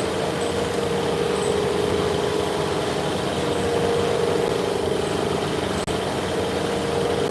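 A workshop machine running steadily: a constant mid-pitched hum over an even hiss, with a momentary drop-out about six seconds in.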